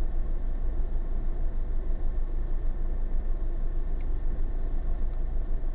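Wind buffeting the microphone in strong gusts: a steady low rumble that swells and dips rapidly, with a faint click about four seconds in.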